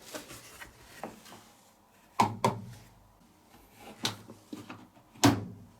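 Washing machine's plastic detergent dispenser drawer being handled and slid, giving a series of knocks and clunks, the loudest a sharp clunk near the end.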